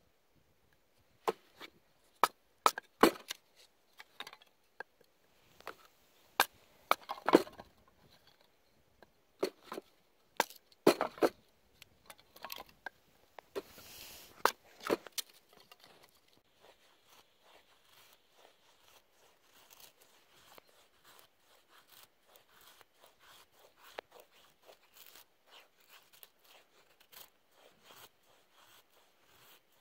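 Dry sticks and kindling snapping and knocking together as a campfire is laid over tinder. Sharp separate cracks come through the first half, with a short rustling burst about halfway. After that, faint, dense small crackles and rustling continue.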